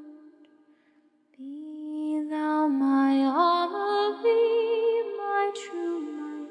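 A cappella vocal harmony. After about a second and a half of near silence, layered voices come in and sing held chords, sliding from note to note.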